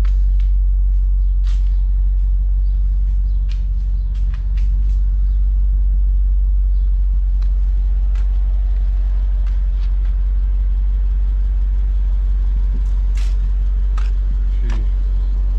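Supercharged 5.4-litre V8 of a Mercedes SL55 AMG idling steadily, a deep even hum, on its first run after three years laid up. A few light clicks sound over it.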